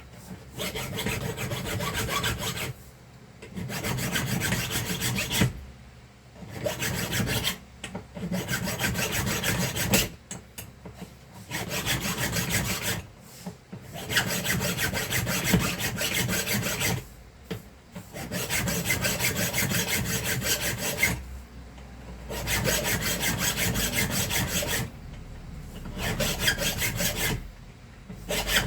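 Hand file rasping back and forth in spells of a few seconds with short pauses, filing out a too-tight bearing seat in a handheld vacuum cleaner's motor so a new bearing can be pressed in.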